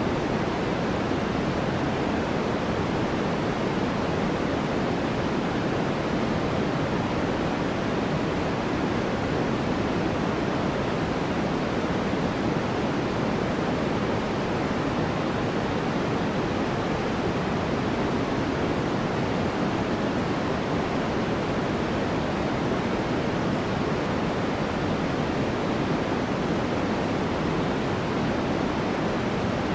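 Steady white noise played as a sleep sound: an even, unbroken rush that stays at the same level, fuller in the low and middle range than in the treble.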